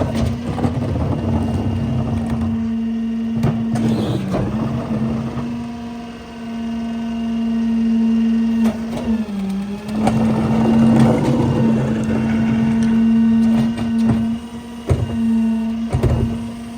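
Heil PowerTrak rear loader garbage truck packing trash: the CNG engine and hydraulic packer run in a steady drone whose pitch sags briefly twice under the heavy load, with cracks and knocks of trash being crushed in the hopper.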